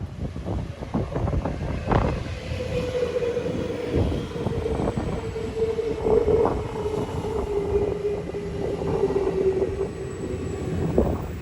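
Electric train passing, its wheels knocking over rail joints in irregular clacks, with a steady whine that sets in about two seconds in.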